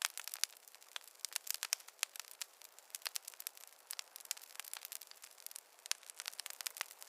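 Fire in a fireplace crackling: a steady stream of sharp pops and snaps, several a second, over a faint hiss.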